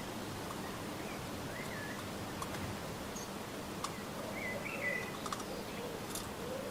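Small garden birds giving a few short chirps over steady outdoor background noise, with several sharp clicks scattered through.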